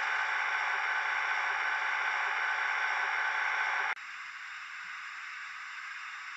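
Sound decoder of a Liliput BR 75 model steam locomotive giving a steady hiss through its small speaker. The hiss drops suddenly to a quieter level about four seconds in.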